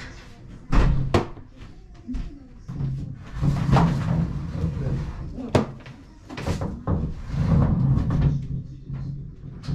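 Kitchen clatter from cooking: several sharp knocks and bangs of cupboards, pans or utensils, with a television talking in the background.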